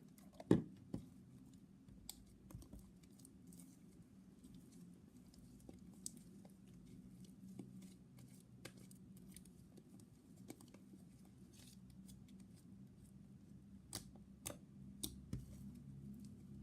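Fluffy slime being kneaded and squeezed by hand, giving scattered small sticky clicks and pops, the loudest about half a second in; the slime is still only partly activated with borax.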